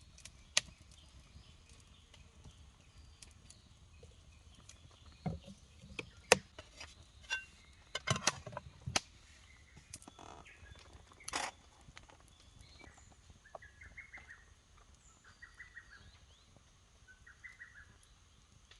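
Scattered sharp clicks and knocks, a handful of them, the loudest about six seconds in, with a bird giving three short trilled calls in the second half.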